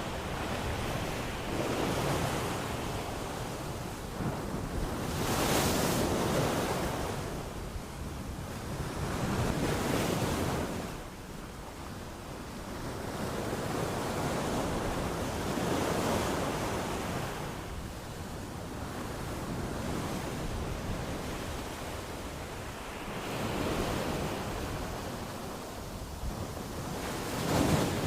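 Ocean waves breaking on a shore, each wash swelling and ebbing every few seconds, with the loudest around six and ten seconds in.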